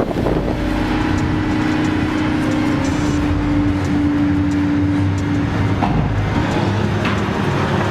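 An engine running steadily at a high, even pitch, settling to a lower pitch about five and a half seconds in.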